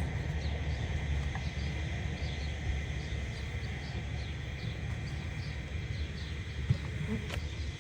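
Small bird chirping repeatedly in short, high, falling notes, about once or twice a second, over a steady low rumble, with a sharp click near the end.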